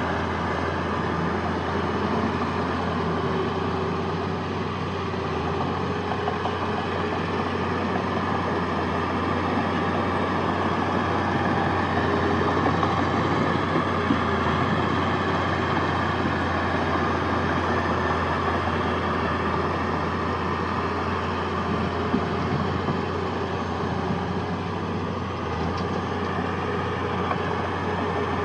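Heavy diesel earthmoving machinery running steadily, with a constant low engine hum and no sharp changes.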